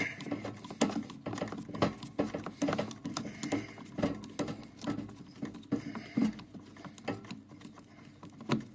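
Irregular light clicks, taps and rattles of hands and tools working on plastic parts inside a refrigerator.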